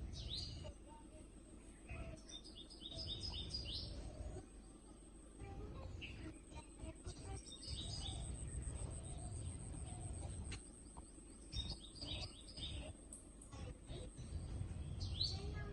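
Wild birds chirping in short runs of quick repeated calls, a few seconds apart, over a steady thin high whine and a low rumble.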